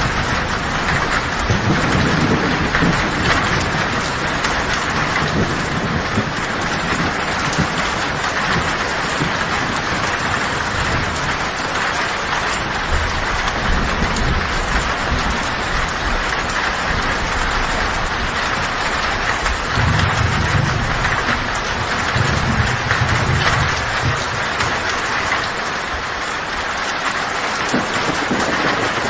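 Heavy rain falling steadily on a tin roof, a dense even hiss. Low thunder rumbles in the background, swelling about two seconds in, again around the middle, and in a longer spell in the last third.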